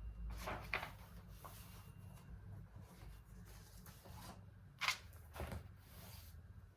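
A few short rustles and soft handling sounds, like paper or a book being moved, over a low steady room hum; the loudest comes about five seconds in.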